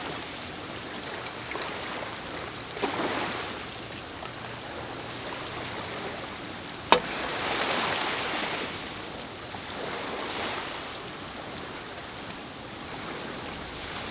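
Sea waves washing ashore, swelling every few seconds, with one sharp click or knock about halfway through.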